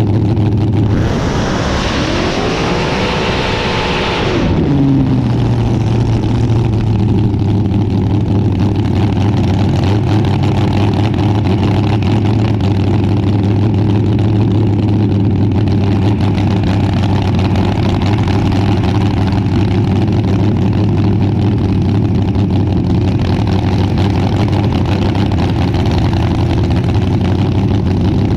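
Front-engine dragster's engine idling with a steady low drone. About a second in it revs up, holds high with a loud hiss for about three seconds, then drops back to idle.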